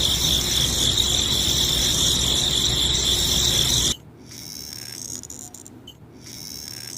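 Small electric motor running at high speed with a steady high-pitched whine, dropping sharply to a much fainter hum about four seconds in.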